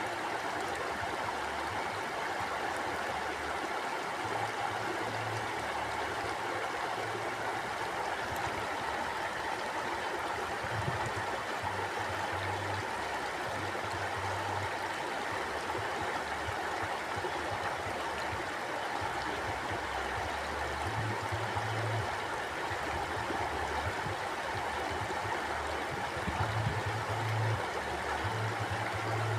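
Stream water flowing steadily, a continuous rushing babble with no breaks, with a low rumble that swells and fades every few seconds.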